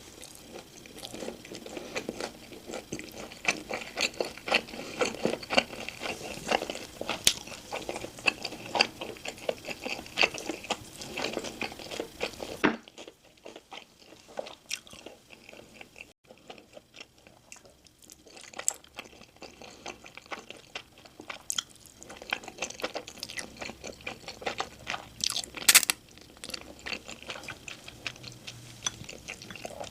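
Close-miked eating: food crunched and chewed in the mouth, a dense run of crackly bites. About halfway through it goes quieter for several seconds, then the crunching picks up again, with one sharp loud crunch near the end.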